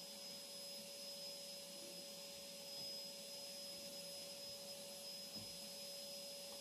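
A faint, steady hiss with a constant hum tone under it, like a running motor or appliance, with a small soft knock about five seconds in.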